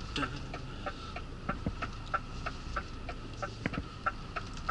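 Truck's reversing alarm beeping in short, even pips about three times a second, over the low running of the engine.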